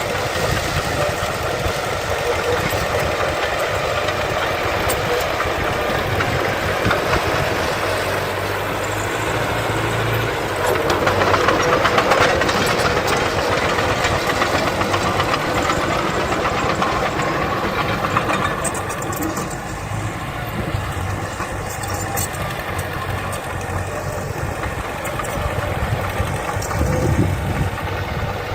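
Diesel engines of a bulldozer and dump trucks running steadily, growing louder about eleven seconds in. A few sharp clanks come later.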